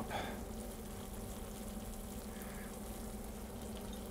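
Mozzarella cheese frying in a small skillet over medium heat, a faint steady sizzle, with a low steady hum underneath.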